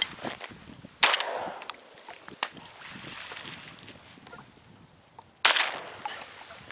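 Two shotgun shots about four and a half seconds apart, each a sudden loud bang with a short fading tail.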